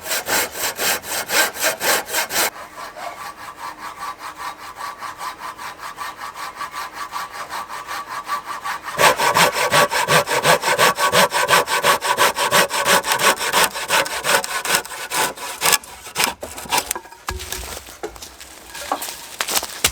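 Hand saw cutting through wood in quick, even back-and-forth strokes, about four a second. It saws hard, then lighter, then hard again, and stops a few seconds before the end. A few scattered knocks and scrapes follow.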